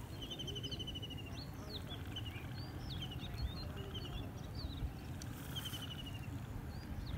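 Several birds calling: short chirps and rapid trills, over a steady low rumble.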